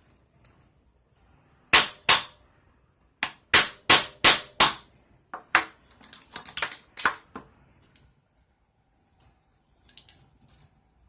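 A series of sharp hard taps: two about two seconds in, a quick run of five, then a looser cluster of smaller taps, with only faint ticks near the end.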